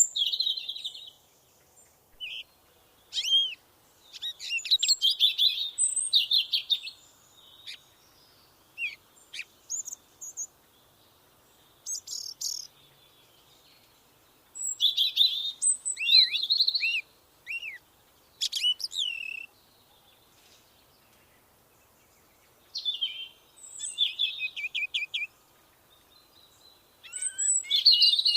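Songbird song outdoors: short, varied, warbling phrases of high chirps and slurred whistles, each group lasting one to five seconds, with pauses of a few seconds between them.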